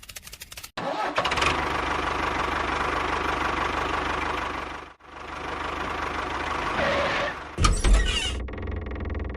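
A small motor or engine running steadily in short segments that start and stop abruptly, with a louder low rumble near the end.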